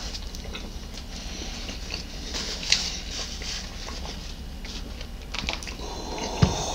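Close-up eating sounds: biting into and chewing soft bread rolls, with scattered small mouth clicks and smacks and one sharper click a little under three seconds in.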